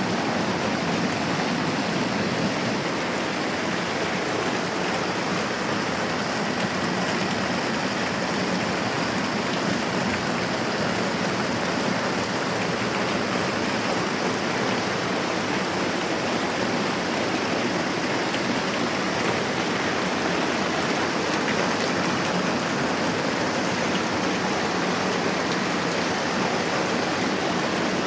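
Steady moderate rain, an even unbroken hiss of falling rain.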